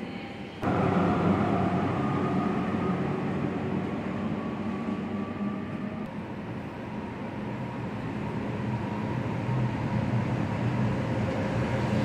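High-speed train moving through a station, a steady rumble with faint humming tones under the station roof. It starts abruptly just under a second in and grows louder near the end.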